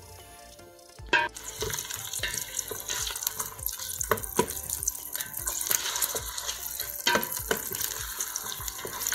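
Chopped onions, ginger and garlic sizzling in hot olive oil in a stainless steel pot as they are stirred with a wooden spoon, the spoon knocking and scraping against the pot now and then. The sizzle swells about a second in.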